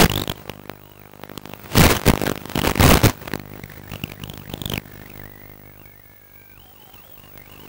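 Radio-controlled model airplane heard through its onboard camera: its motor runs under loud bursts of wind or rumble on the microphone in the first half. Later a wavering whine rises and falls as the motor speed changes.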